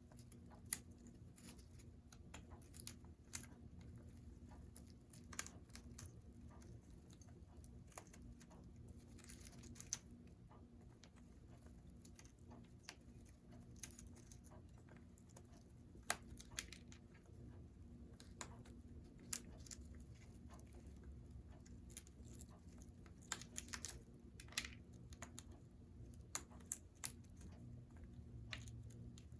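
Congo African grey parrot chewing and tearing at a chew toy with its beak: irregular clicks, snaps and crunches at scattered moments, with a faint steady low hum underneath.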